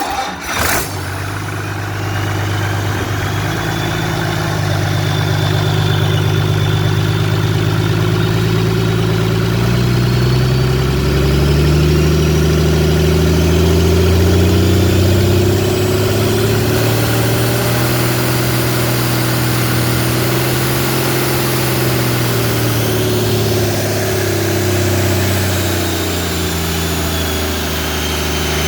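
Rebuilt 8.3-litre six-cylinder Cummins diesel in a Case IH 310 tractor, running in after a major overhaul. A short sharp burst comes just under a second in, then the engine idles. It revs up about ten seconds in, holds the higher speed, and eases back down to idle towards the end.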